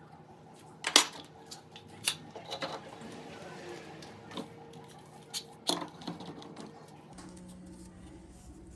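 Workshop handling sounds: about half a dozen sharp knocks and clatters, the loudest about a second in, as tools or wooden pieces are handled and set down. About seven seconds in, a small electric power tool starts up and runs with a steady hum.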